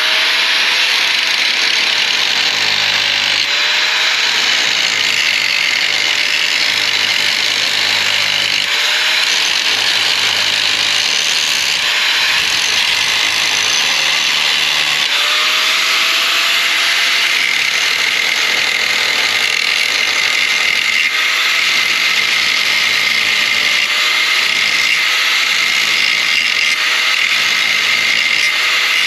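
Power tool running continuously on metal, a loud steady whine that wavers slightly in pitch over a harsh hiss.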